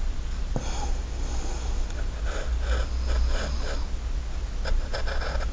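Faint breathing and sniffing close to the microphone over a steady low hum.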